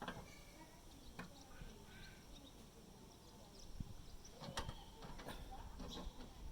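Faint handling noise: scattered soft clicks and taps, a few of them together about four to five seconds in, with faint short chirps like a bird's.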